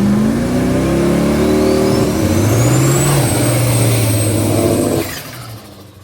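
Turbocharged LS-swapped Mustang drag car accelerating hard, its engine note climbing in pitch with a rising turbo whine that levels off high. The sound drops away abruptly about five seconds in.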